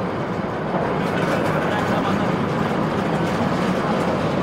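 A passenger train running at speed over a steel river bridge, heard from an open coach window: a steady rumble and rattle of wheels and coaches that grows a little louder about a second in.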